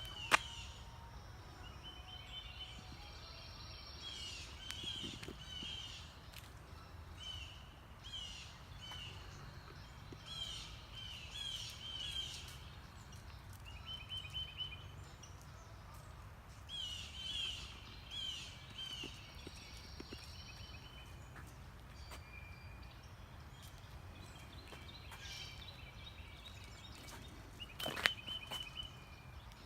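Songbirds calling, short chirping notes repeated in runs of a few at a time, over a steady low rumble. A sharp click just after the start and another near the end.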